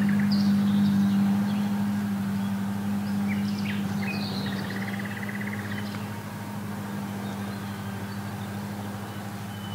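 Small birds chirping and trilling in short calls over a steady low hum.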